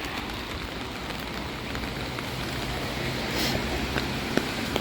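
Steady rain falling on wet surfaces, with scattered drop ticks. A low steady hum comes in about halfway through and stops shortly before the end.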